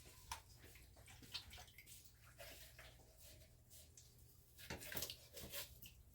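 Faint clicks and scrapes of a freshly sharpened kitchen knife cutting raw chicken, with a cluster of louder clicks about five seconds in.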